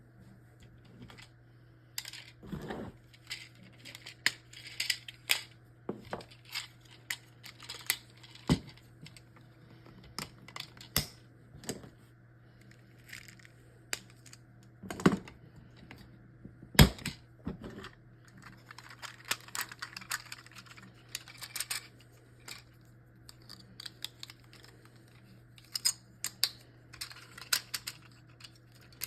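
Hard plastic parts of a DX Robo Universe Engine Oh combining robot toy being handled and clicked together: irregular sharp clicks and short rattles, one loud snap about seventeen seconds in. A steady low hum runs underneath.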